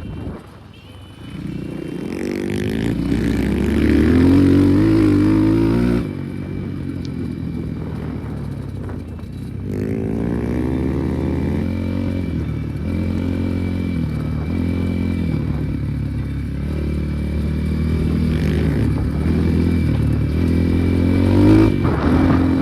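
Enduro motorcycle engine being ridden, its note rising and falling again and again as the rider works the throttle. It is loudest in a climb a few seconds in, then changes abruptly about six seconds in.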